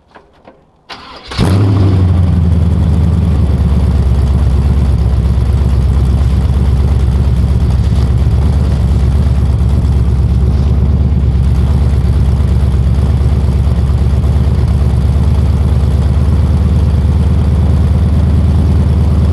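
Chevy 350 small-block V8 with a Summit Racing 8802 cam starting from cold: a couple of faint clicks, a brief crank, then it catches about a second and a half in and settles into a loud, steady idle through Cherry Bomb Solitude mufflers.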